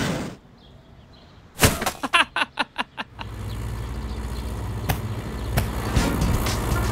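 A small car's engine running steadily as it drives, starting about three seconds in. Before it come a sharp thump and a quick run of short pitched blips.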